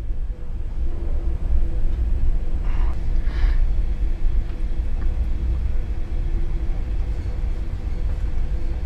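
Ship's engine rumbling deep and steady with a faint steady hum over it, and two brief higher noises about three seconds in.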